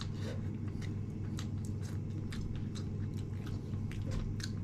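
A person chewing food, with many small irregular clicks of mouth and teeth.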